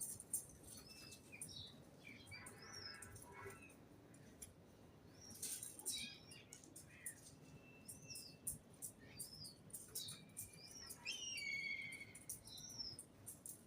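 Several small birds chirping and twittering in short, overlapping calls, with many sharp clicks among them.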